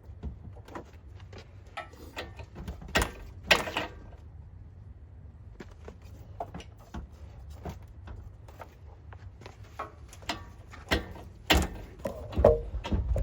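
Irregular clinks, knocks and rattles of metal parts as a car engine is worked out of its engine bay. There are a few louder bangs about three seconds in and again near the end.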